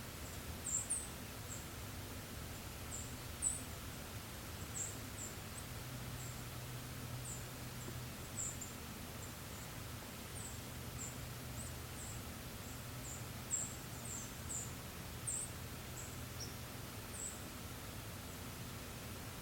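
Very high, thin, short chirps from a small forest bird, scattered irregularly at a dozen or more points, over a steady low background hiss and hum.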